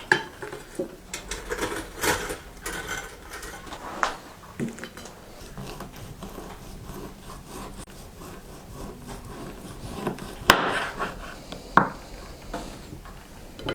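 Scattered knocks and clatter of objects being handled, with two sharper bangs about ten and a half and twelve seconds in.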